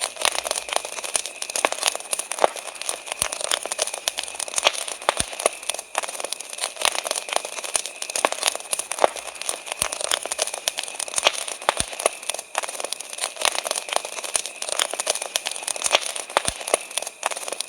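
Wood campfire crackling, with a constant stream of irregular snaps and pops from the burning logs. Crickets chirp steadily in the background.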